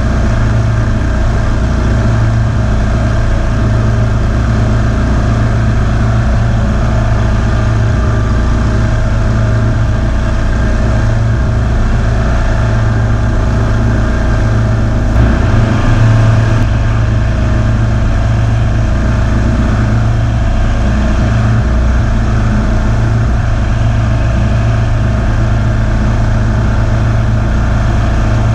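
Kawasaki V-twin engine of a Ferris zero-turn lawn mower running steadily, briefly louder about halfway through.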